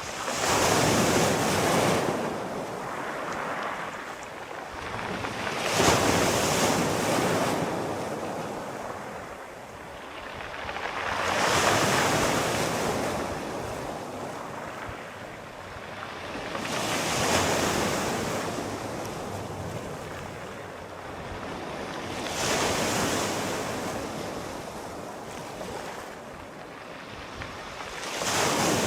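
Sea waves breaking in a steady rhythm, about one every five to six seconds: each a rushing surge of surf that rises quickly, then slowly hisses away before the next.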